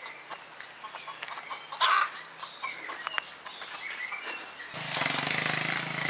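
Birds chirping over quiet rural ambience, with one louder short call about two seconds in. Near the end a loud, steady, droning noise with a low hum cuts in suddenly.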